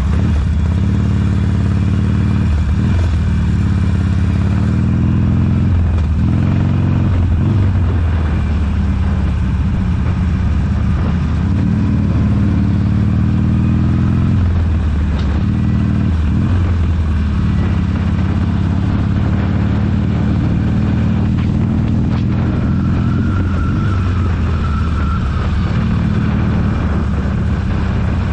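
Motorcycle engine running under way, its note climbing with the throttle and dropping back several times, as at gear changes.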